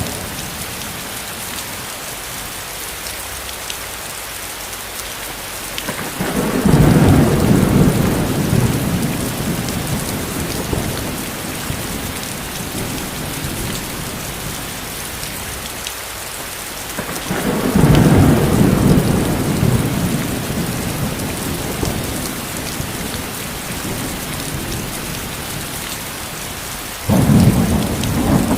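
Steady rain falling, with thunder rolling in three times: about six seconds in, again in the middle, and near the end. Each low rumble starts suddenly and fades away over several seconds.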